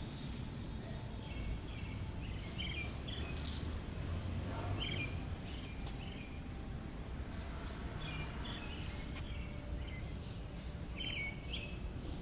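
Small birds chirping in short, repeated calls over a steady low background rumble, with brief hissy bursts coming and going.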